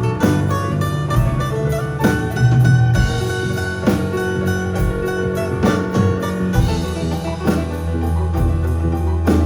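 Live band playing an instrumental passage: guitar over a drum kit, with regular drum hits and a steady low end.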